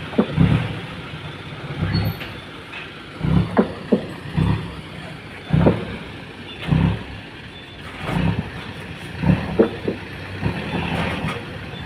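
Dump truck engine running, with a dozen or so irregular thuds and knocks.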